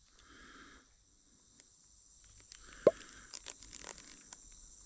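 Rainforest ambience: a steady high-pitched insect drone, with one sharp click about three seconds in and a few fainter ticks after it.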